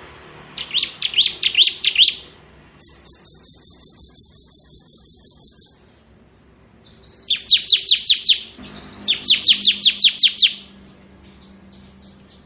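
Ciblek (bar-winged prinia) singing in its rapid drilling 'ngebren' style. It gives four fast trills of repeated notes with short pauses between them; the second trill is higher and steadier and lasts about three seconds.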